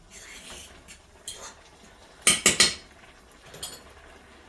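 Kitchen cookware clinking: a few light knocks, then three sharp metal-on-metal clinks in quick succession a little past halfway, and one fainter clink near the end.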